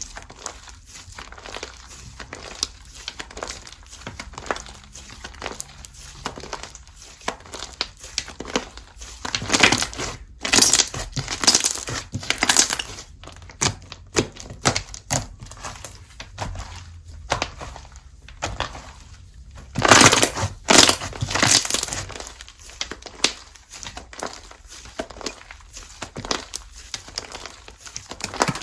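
Slime being squished, stretched and poked by hand, giving a run of sharp crackling and popping clicks. There are louder, denser stretches of crackling about ten seconds in and again about twenty seconds in.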